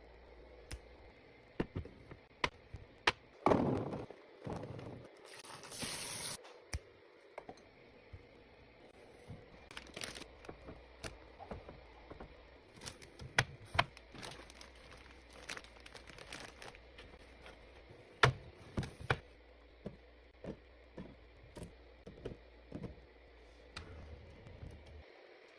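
Items being handled and set down while a fridge is stocked: scattered clicks and knocks of containers, with crinkling and rustling of packaging, the loudest bouts of rustling about four seconds in and a brief hiss about six seconds in.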